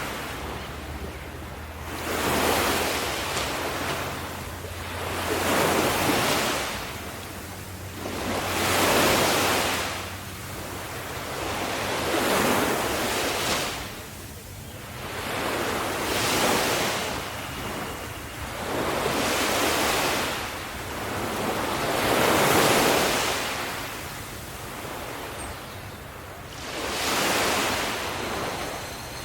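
Ocean surf: waves breaking and washing in over and over, a new surge about every three to four seconds.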